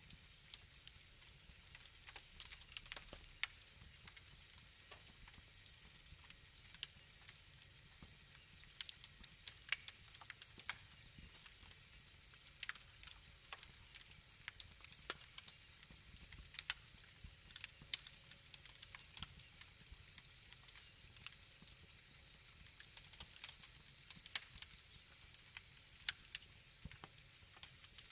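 Wood fire crackling: irregular sharp snaps and pops, some louder than others, over a faint low rumble.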